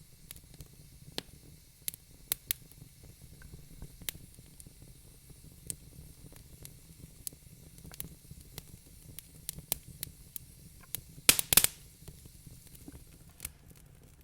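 Wood fire crackling in a fireplace: irregular sharp pops and snaps over a low steady rumble and soft hiss, with a quick run of louder pops about eleven seconds in.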